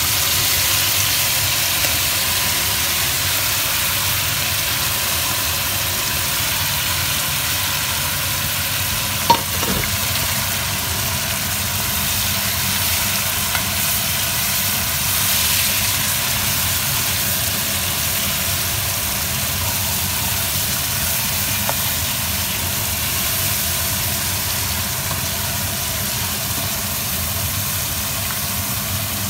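Seafood sizzling and frying in a pan of thick sauce while being stirred with a spoon, a steady hiss with a low rumble underneath. A single sharp knock comes about nine seconds in.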